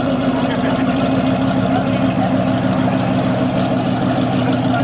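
Pontiac GTO's V8 running through an SLP Loudmouth exhaust, loud and holding a steady speed with no rise or fall in pitch.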